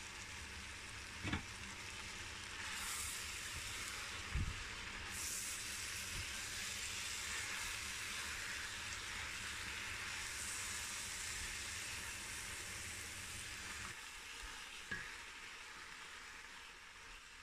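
Shredded jackfruit and smoked pork frying in an enamelled cast-iron pot, a steady sizzle while a wooden spatula stirs and turns the mix. The spatula knocks against the pot three times: about a second in, about four seconds in, and near the end.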